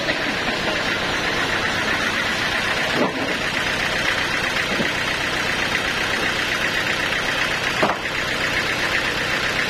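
Sawmill machinery running steadily, with two short knocks, one about three seconds in and one near the end.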